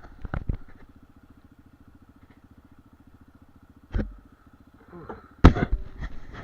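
Dirt bike engine idling with an even, rapid putter, broken by a few knocks and clatters, the loudest cluster near the end.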